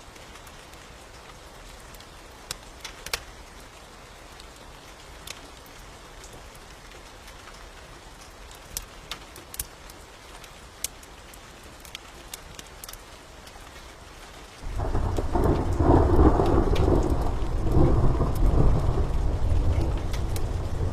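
Steady rain with scattered sharp pops, then about fifteen seconds in a loud thunder rumble breaks in suddenly and keeps rolling.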